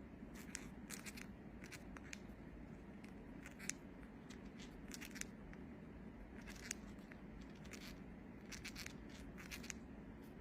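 Faint, irregular clicks and scratches, several a second at times, over a steady low hum.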